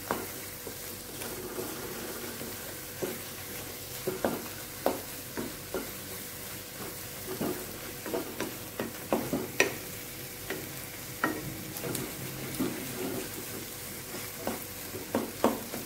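Scrambled egg with masala frying in a non-stick kadai over a medium flame, with a steady sizzle, while a spatula stirs and breaks it into small pieces, making irregular sharp scrapes and taps against the pan.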